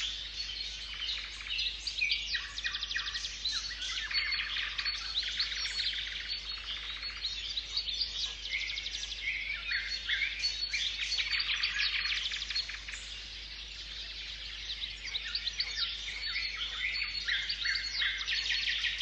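Several birds singing and calling at once, a dense chorus of overlapping high chirps, trills and rapid runs of notes, easing off briefly past the middle before picking up again.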